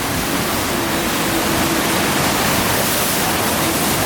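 Steady rush of water from a FlowRider sheet-wave surf machine, its pumped sheet of water pouring up the ride surface.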